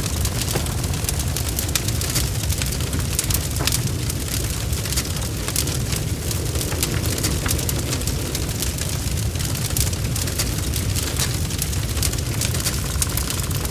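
Wood fire crackling in a fireplace, with many quick sharp pops and snaps over a steady low rumble of the flames.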